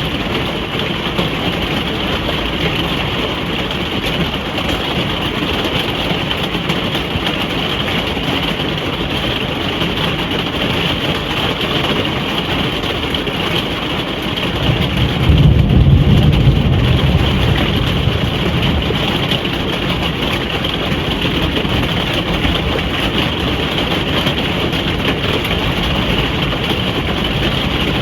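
Steady rain falling on a caravan roof, heard from inside the caravan. About halfway through, a low rumble of thunder swells and fades over a few seconds.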